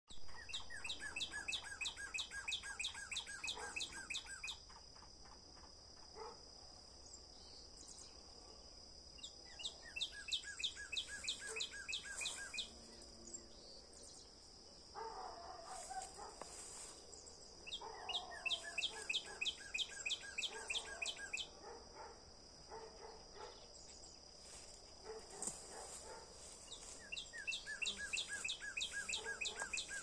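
A songbird singing a rapid trill of repeated notes, about four a second and some four seconds long, four times at intervals of about nine seconds. A steady high-pitched whine runs underneath.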